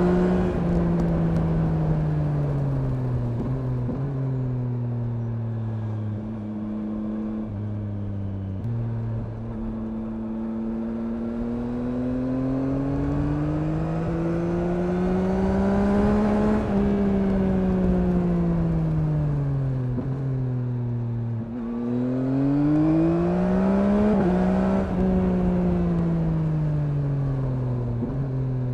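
2021 Yamaha MT-09's 890 cc three-cylinder engine heard from the rider's seat, its pitch swelling and falling as the bike speeds up and slows down: dropping at first, climbing to a peak about halfway, falling, then climbing again about three-quarters through before easing off near the end. Brief sudden steps in pitch mark the gear changes.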